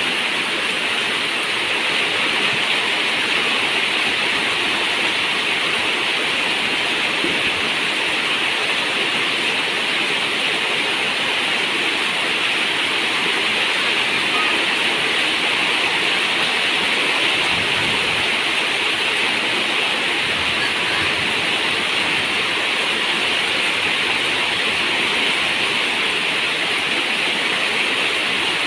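Heavy rain falling steadily on a zinc roof, a dense, even hiss with no breaks.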